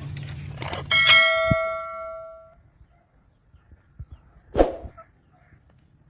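A small metal bell struck once, ringing out and fading over about a second and a half. Later comes one short bird call, typical of a parrot.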